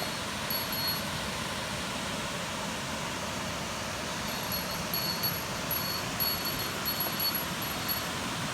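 Steady rush of a waterfall on a mountain stream, an even wash of falling water. From about halfway in, brief high-pitched ringing tinkles come again and again over it.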